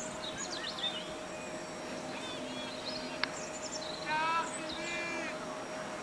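Birds calling: short high chirps scattered through, and two longer pitched calls about four and five seconds in, over a faint steady hum, with a single click a little after three seconds.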